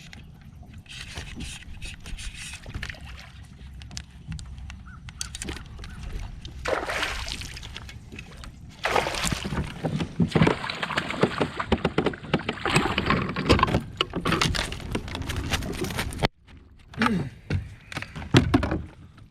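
Water splashing and sloshing against a kayak as a hooked bass is fought to the boat. The splashing is loudest and most continuous through the middle, stops abruptly, then comes in a few short splashes near the end.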